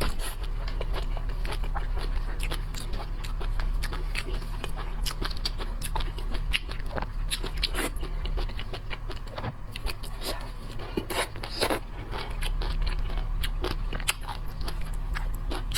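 Close-miked eating of shellfish: chewing and crunching with a dense run of small sharp clicks and crackles, over a steady low hum.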